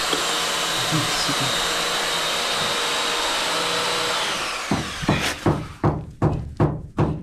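A loud, steady motor whirr, like an electric power tool running, dies away about two-thirds of the way in. A quick run of evenly spaced knocks follows, about two to three a second.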